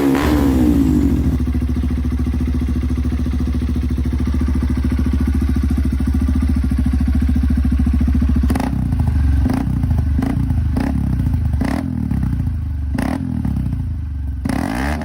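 Honda Bros single-cylinder motorcycle engine through an aftermarket exhaust, idling steadily, then blipped with a string of short throttle revs from about halfway.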